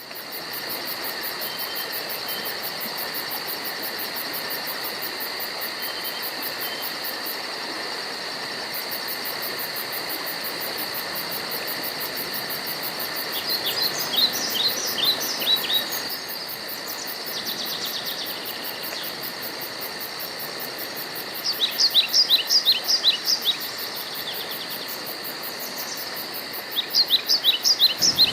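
A steady insect chorus with a fast, pulsing high buzz, joined three times in the second half by a bird's quick series of short, falling chirps, about eight notes a bout.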